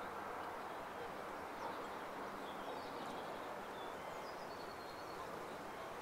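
Steady hiss of outdoor background noise with faint, short high bird chirps scattered through it and a brief thin whistle about four seconds in.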